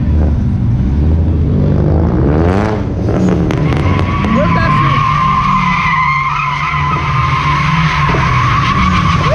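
A truck's engine revving up, then its tyres squealing steadily in a drift from about four seconds in.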